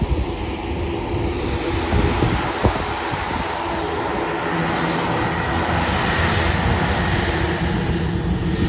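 Twin-engine Beechcraft turboprop of the Royal Flying Doctor Service running with both propellers turning: a steady engine drone that grows a little louder, with a thin high whine coming in about halfway.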